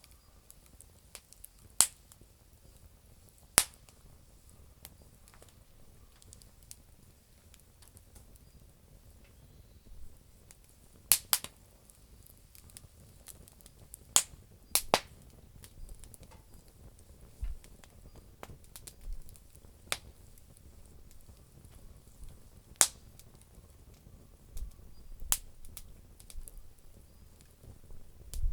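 Campfire of damp firewood crackling: sparse sharp pops every few seconds, with fainter ticks between them.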